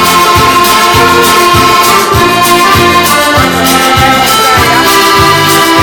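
Live band playing an instrumental passage of an Irish folk-country song, with accordion carrying the melody in held notes over a steady bass beat.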